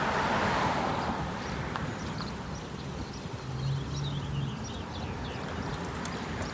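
Wind on the microphone and traffic noise during a bicycle ride, with a run of light, rapid ticks and a brief low hum in the middle.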